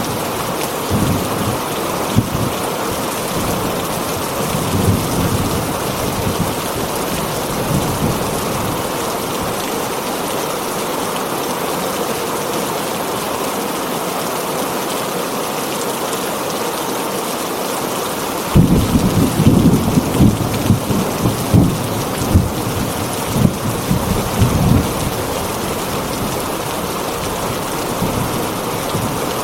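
Heavy rain falling on a tin roof, a steady even hiss, with thunder rumbling low underneath; a stronger, uneven roll of thunder comes about two-thirds of the way in and lasts several seconds.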